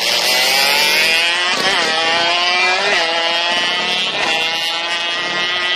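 Several small motorcycle engines revving hard, their pitch climbing and dropping again several times. The bikes are being revved on the line before a drag-race launch.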